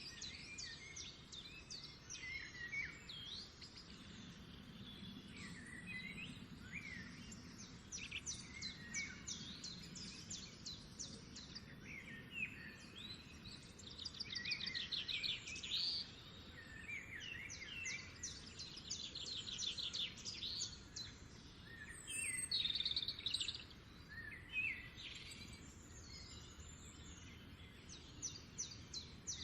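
Songbirds singing: a continual mix of short chirps and fast trills, several overlapping, over a faint steady hiss.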